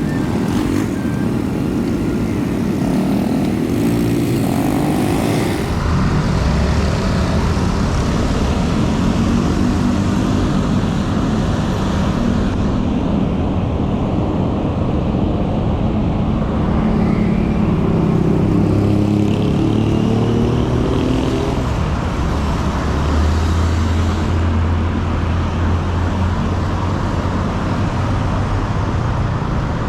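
City road traffic passing close by: engines of cars and motorbikes running past over a steady rush of road noise, their engine notes rising and falling as they go by.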